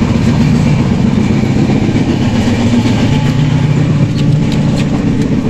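Steady low rumble of a moving passenger express train, heard from inside the coach, with a few light clicks about four to five seconds in.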